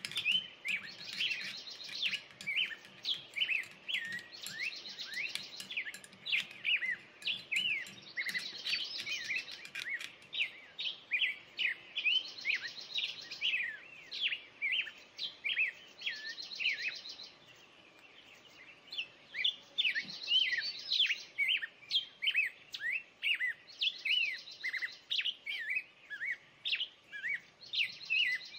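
Birds chirping: a steady stream of quick chirps with a buzzy trill repeating about every two seconds. The birds fall silent for a couple of seconds about two-thirds of the way through, then resume.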